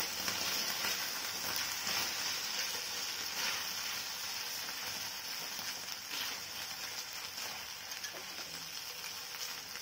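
Ginger, garlic and Schezwan sauce sizzling in hot oil in a nonstick frying pan, stirred with a silicone spatula: a steady hiss with a few soft scrapes, slowly getting quieter.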